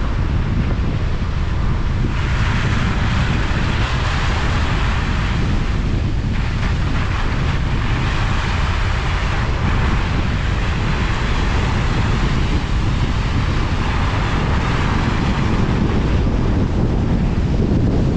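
Steady rumble and hiss of a car being driven: tyre and wind noise, the hiss swelling and easing every few seconds.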